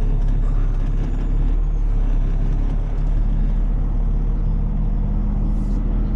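Tow truck's diesel engine running, heard from inside the cab as a steady low drone; its pitch rises a little about three seconds in.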